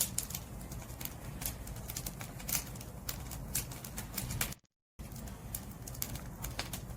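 Wood fire burning, with frequent sharp crackles and pops of firewood over a steady low rumble of flames. The sound cuts out completely for under half a second about two-thirds of the way through.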